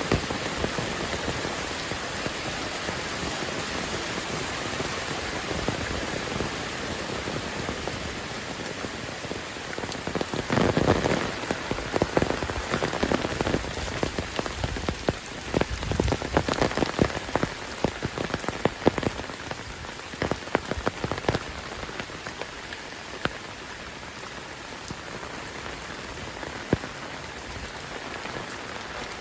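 Heavy rain falling steadily, with a stretch of louder, irregular taps and splashes of drops through the middle.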